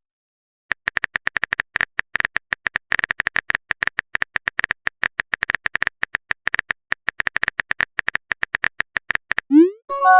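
Rapid keyboard-typing sound effect: a long, uneven run of quick clicks. Near the end comes a short rising swoop and a chime, a message-sent notification sound.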